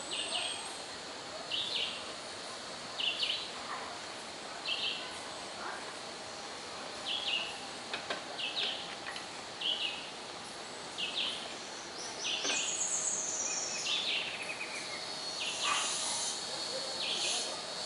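Birds calling: one short high note repeated about every second and a half, joined about twelve seconds in by a different call, a rapid run of notes, over a steady background hiss.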